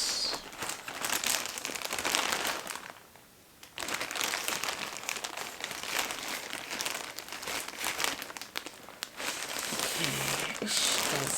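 Crinkling and rustling of packaging as a parcel is handled and opened, with a brief pause about three seconds in.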